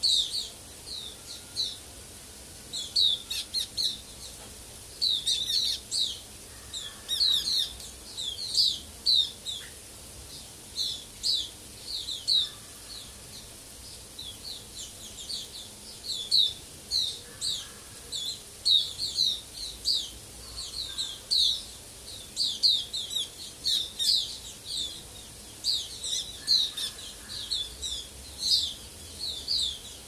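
Small birds chirping: quick runs of short, high chirps, repeated over and over.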